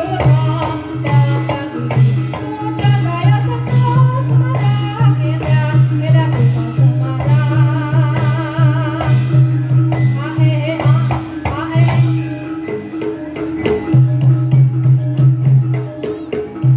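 Live Javanese reog music: drums and percussion keep a steady beat under a wavering melody line, over a loud low held note that stops briefly about twelve seconds in and then comes back.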